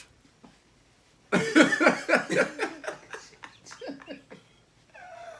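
A burst of laughter starts about a second in: loud, rapid bursts of voice that trail off into fainter clicks. A drawn-out voiced sound begins near the end.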